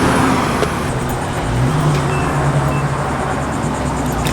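Car engine running with outdoor traffic noise. A steady low hum comes in about one and a half seconds in.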